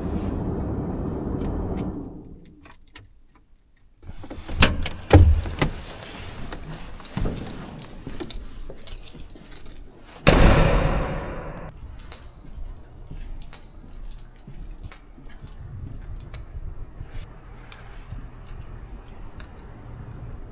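A steady low rumble that stops about two seconds in, then scattered clicks, knocks and jingling handling noises, with a heavy thud about ten seconds in.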